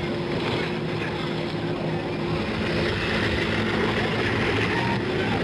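Engine running steadily, a constant hum over a continuous rushing noise.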